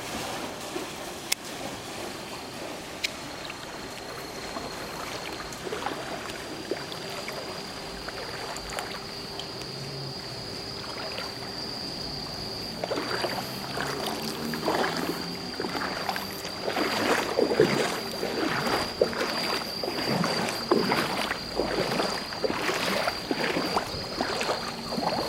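Floodwater sloshing and splashing in irregular surges that grow louder and busier about halfway through, over a steady high-pitched tone.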